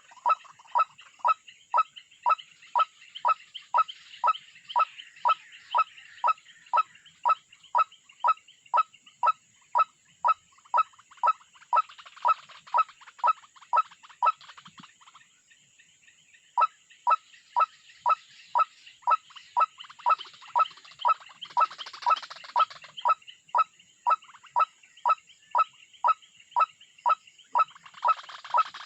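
A bird calling over and over in short, sharp, evenly spaced notes, about two a second, breaking off once for a second or so past the middle, with fainter higher chatter behind.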